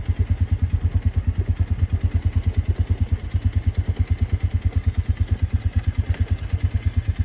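Four-wheeler (ATV) engine running at a steady low speed, an even chugging of about ten beats a second. A single faint click sounds about six seconds in.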